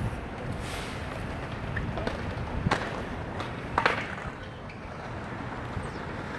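City street ambience: a steady rush of traffic, with two sharp clatters about a second apart near the middle.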